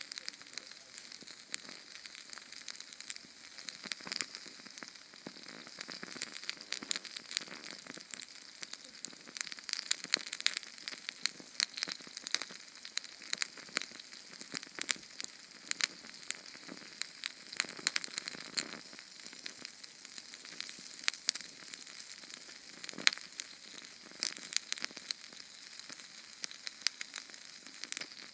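Small Sterno canned-fuel flame burning: a steady high hiss packed with sharp, irregular crackles and pops.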